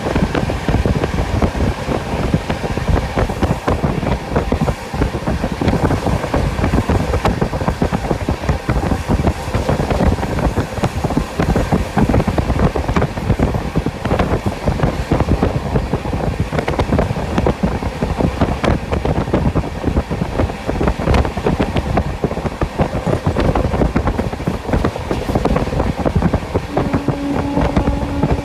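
Sampoorna Kranti Express running at speed, heard from inside a coach by an open window: a steady rush of wheels on the rails and wind, with constant clicking and rattling over the track. A steady low tone joins near the end.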